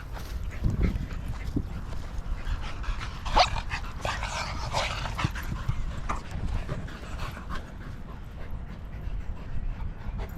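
Small dogs whining and yelping in a short cluster about three to five seconds in, the loudest yelp about three and a half seconds in, over a steady low rumble.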